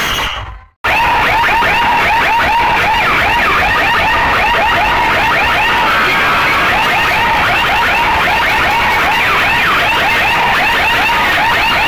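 DJ sound system blasting a loud electronic alarm- or siren-like effect: rapid, overlapping chirping pitch sweeps repeating several times a second. The sound cuts out briefly just before a second in, then runs on steadily.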